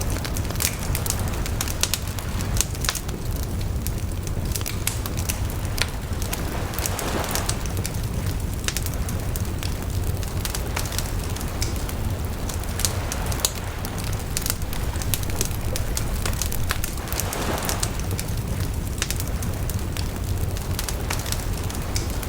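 Bonfire crackling, with frequent sharp pops of burning wood over a steady low rumble. Two brief rushing swells come about seven and seventeen seconds in.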